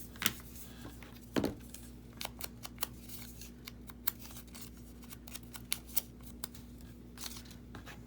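Scissors snipping the corners off a piece of paper: a series of short, sharp snips and paper-handling clicks, the two loudest in the first second and a half.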